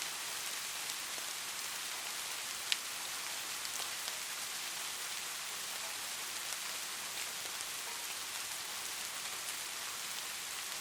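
Light rain falling steadily: an even high hiss dotted with the ticks of single drops, one sharper drop about three seconds in.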